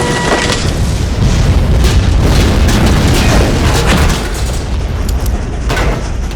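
Action-film sound effects: a heavy, continuous low rumble broken by several sharp bangs of gunfire or explosions.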